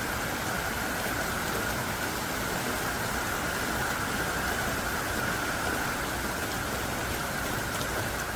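Heavy, pouring rain falling steadily, a dense, even hiss of downpour without a break.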